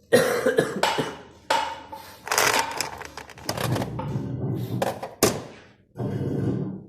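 A run of loud rustling and knocking noises, with several sharp knocks scattered among stretches of rustle.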